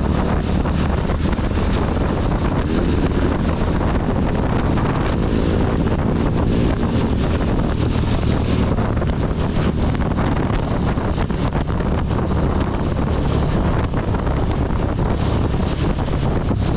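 Wind and heavy rain hitting the microphone of a riding motorcycle, a steady rush scattered with many small drop clicks, over the low steady run of the CB 250's engine.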